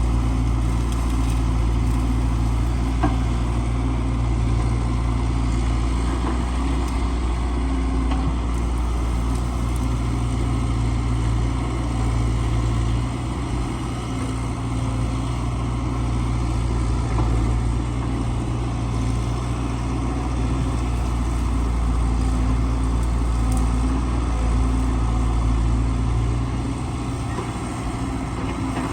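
Excavator's engine running steadily with a low, even note.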